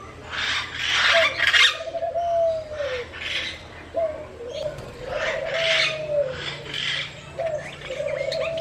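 A captive bird calling over and over: about five harsh, raspy calls, each with a short sliding tone in it.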